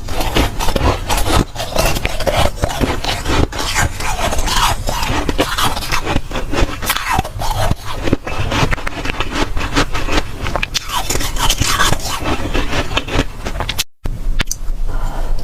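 Close-miked crunching and chewing of dry, soft freezer frost ice: a dense, irregular run of crackly crunches, with a brief dropout near the end.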